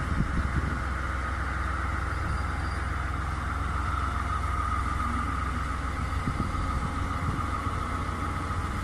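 Diesel engine of a TGM-3A diesel-hydraulic shunting locomotive running steadily, a constant low rumble with a steady higher hum over it.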